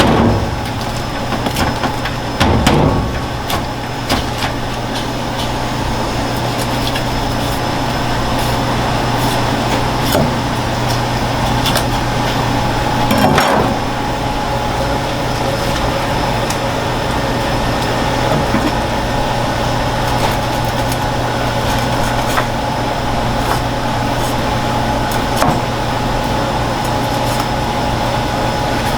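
Steady mechanical hum with a few constant tones, broken by scattered short knocks and clicks, the loudest about two and a half seconds in and again about halfway through.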